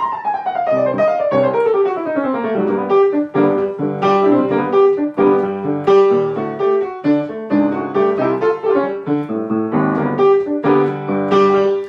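Solo piano playing an instrumental break in a jazz-pop song. It opens with a fast run of notes falling from high to low over the first couple of seconds, then moves into rhythmic chords and repeated notes.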